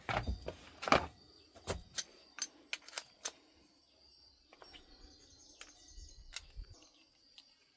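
Hand tools and car parts being handled during repair work: a quick run of sharp clicks and knocks in the first three seconds, then a few scattered ones. Birds chirp faintly in the background.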